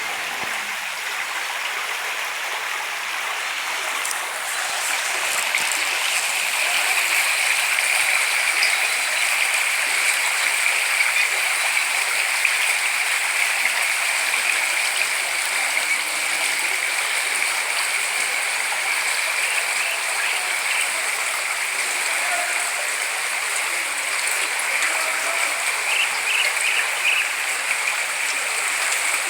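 Floodwater flowing fast in a steady rush, a little louder from about four seconds in.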